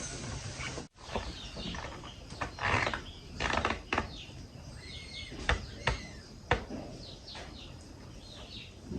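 Scattered metallic clicks and knocks of hand tools working on old chainsaw parts, with birds chirping in the background.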